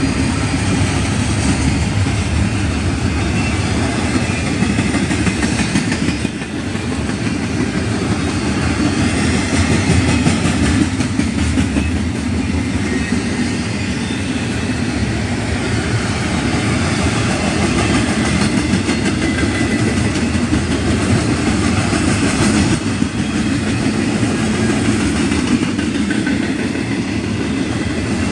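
Double-stack intermodal container train passing close by: steady, loud noise of steel wheels rolling on the rails as the loaded well cars go by.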